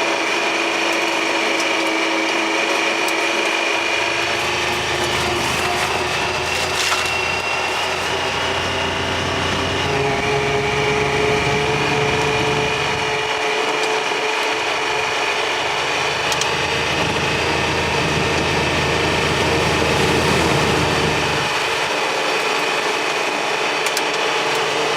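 Engine of a small off-road work machine running steadily while it drives, its pitch drifting slightly upward; a deeper rumble comes and goes twice.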